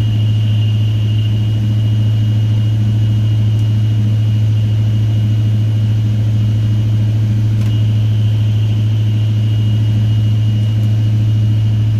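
Freshly rebuilt engine of a 1979 Chevy C20 pickup running steadily at a fast idle of about 1500 RPM for cam break-in, sounding healthy. A faint high whine sits over the engine note.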